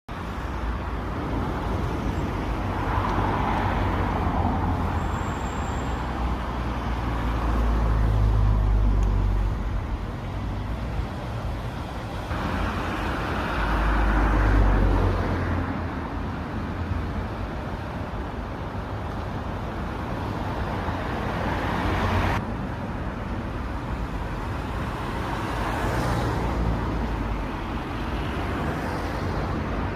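Continuous outdoor rushing noise with deep rumbling swells that rise and fade, most strongly about a third and halfway through. It changes abruptly twice where clips are joined.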